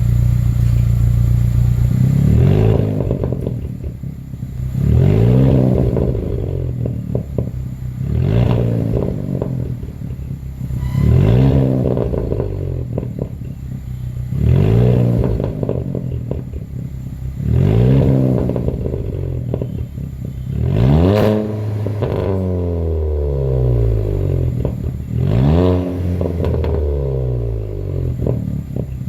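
Turbocharged petrol engine of a VW Vento TSI with a Remus downpipe and exhaust on a Stage 2 remap. It idles, then is revved about nine times, roughly every three seconds, the pitch rising and dropping back toward idle each time.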